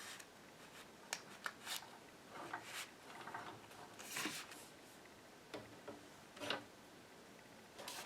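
Faint, scattered clicks and rustles of wire and small parts being handled, with a dozen or so light ticks and short scrapes at uneven intervals.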